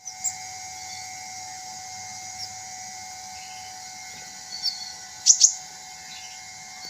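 Sunbird calling with short, sharp, high chirps: a few single notes, then a loud quick double note about five seconds in, over a steady high hiss.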